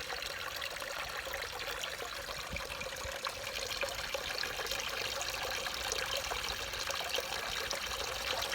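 Backyard pond waterfall trickling weakly, with wind rumbling on the microphone: the flow is low because the pond filter is clogged.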